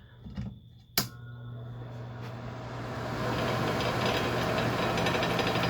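A switch clicks about a second in and the Pryne Blo-Fan exhaust fan's Redmond motor starts with a hum, its airflow rush building over a couple of seconds to a steady run. A light rattle rides on it from the housing, which sits loose with no sheetrock to wedge against.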